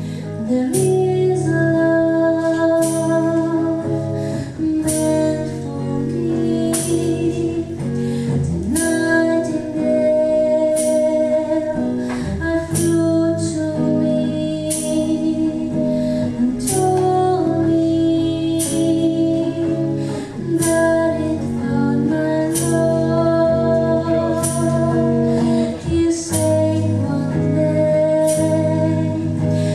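Acoustic song: a woman singing a slow melody over a plucked acoustic guitar accompaniment.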